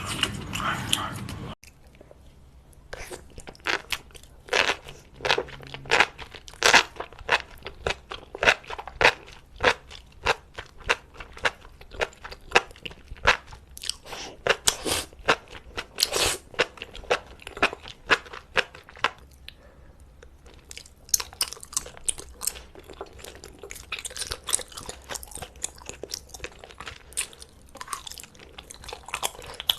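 Close-up eating sounds: crisp, irregular crunches and chewing of seafood, with many sharp crackling bites. A louder, denser sound cuts off abruptly about a second and a half in before the crunching starts.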